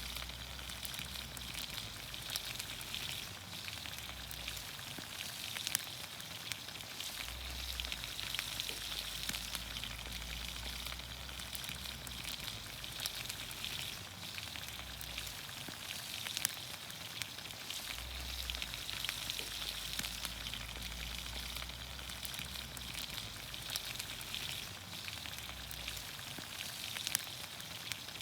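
Green beans, onions, carrots and potatoes sizzling in olive oil over a campfire: a steady hiss with frequent small pops and crackles.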